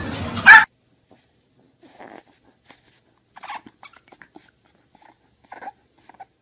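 A loud, short dog yelp about half a second in, cut off sharply. Then a bulldog puppy gives a string of faint, short whimpering cries with its head raised and mouth open.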